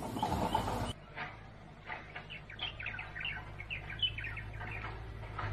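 Small birds chirping in a run of quick, short notes, after about a second of louder noise that stops abruptly.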